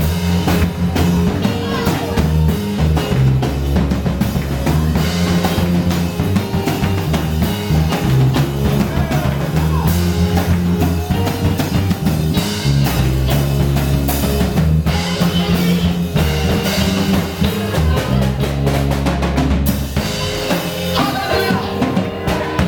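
Band music with a drum kit keeping a steady beat over a deep, moving bass line.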